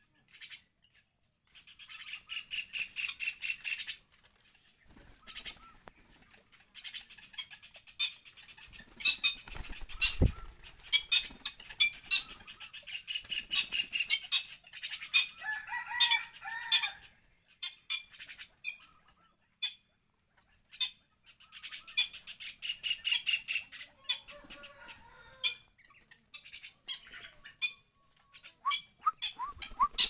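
Birds calling: repeated bursts of rapid, high chattering trills, with a few lower wavering calls about halfway through and a run of short rising chirps near the end.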